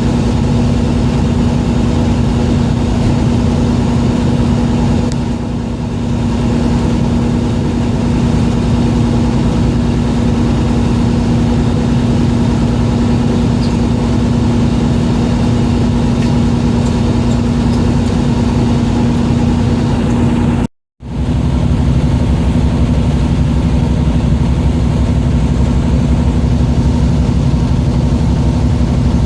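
Fishing boat's engine running steadily with a constant low hum, broken by a brief gap in the sound about 21 seconds in.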